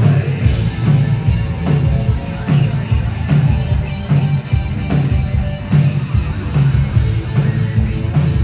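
Live rock band playing an instrumental stretch: electric guitar over bass and drums, with a steady beat.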